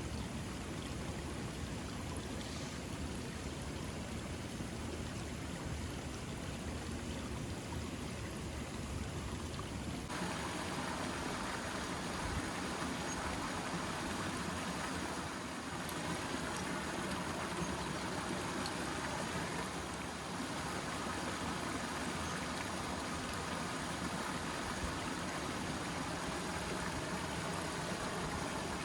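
Steady rushing of water, a continuous hiss that turns brighter and fuller about ten seconds in.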